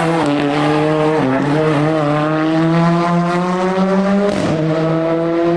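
Hillclimb race car engine at full throttle pulling up through the gears: its pitch climbs steadily and dips at upshifts about a second in and again near the end, over a steady lower drone.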